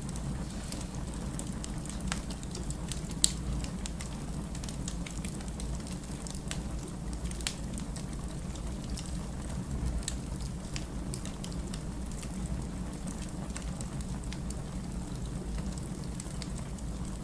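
Wood fire crackling: a steady low rumble of burning logs with scattered sharp crackles and one louder pop about three seconds in.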